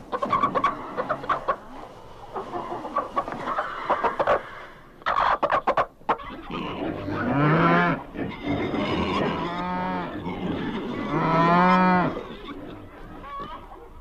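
Cattle mooing: three long moos in the second half, each lasting about a second.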